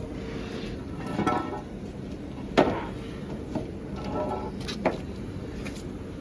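Workshop background noise with faint distant voices and two sharp knocks, the louder one about two and a half seconds in and a lighter one near the end.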